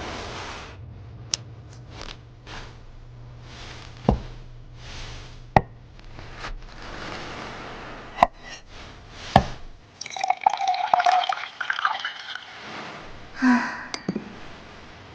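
Food-preparation sounds: scattered sharp knocks and clinks with wet dripping and squelching, then a busier stretch of clinking clatter about ten seconds in.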